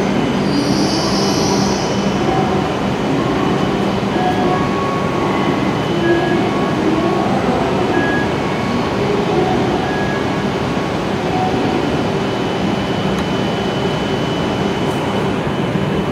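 A W7-series Shinkansen train standing at the platform just after stopping, its onboard equipment running with a steady hum and noise. A higher hiss comes in the first couple of seconds, and a few short faint tones come partway through.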